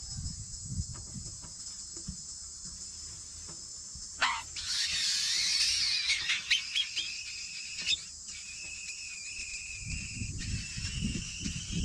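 Steady high chirring of insects. About four seconds in, a harsh hissing burst of calls breaks out, then settles into a thin, steady high call, typical of red-billed blue magpie nestlings begging.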